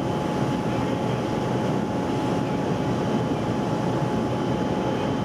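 Steady, loud engine noise with a constant high whine running over it.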